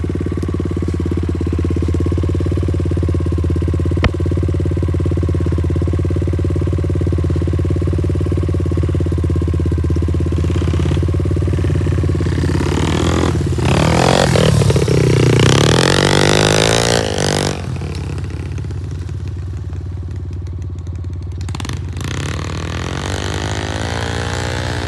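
Pit bike engine running steadily, then revving up and down and growing louder as the bike rides close by about halfway through, before settling back to a quieter steady note. A single sharp click about four seconds in.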